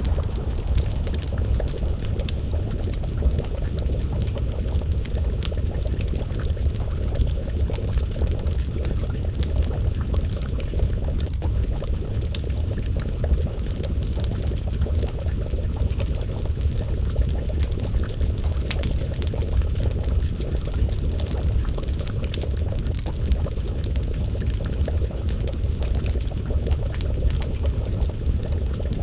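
Wood fire crackling, with scattered sharp pops over a steady low rumble, mixed with a pot of stew bubbling at a simmer.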